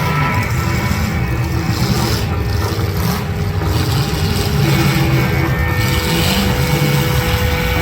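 Demolition derby cars' engines running loudly.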